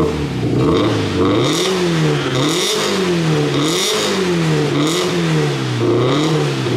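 Subaru WRX STI's turbocharged flat-four boxer engine, breathing through a Kondo Engineering full-titanium muffler with its exhaust valve open, blipped repeatedly from idle. About six quick revs come roughly one a second, each rising and then falling back.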